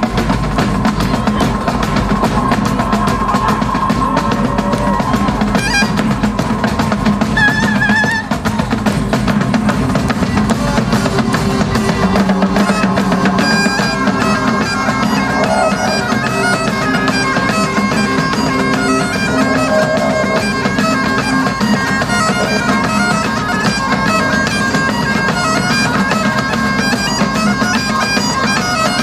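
Live Highland bagpipes playing over their steady drone, with heavy tribal-style drumming. About twelve seconds in the deep drumming thins out and the pipes come more to the fore.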